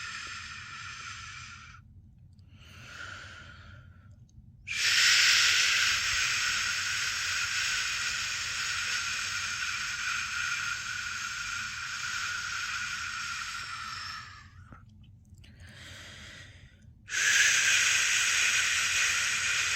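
A person shushing a baby to sleep: long, steady 'shhh' sounds of up to about ten seconds, one ending about two seconds in, another from about five seconds to fourteen, and a third starting at about seventeen seconds. Each pause between them holds a short, softer hiss.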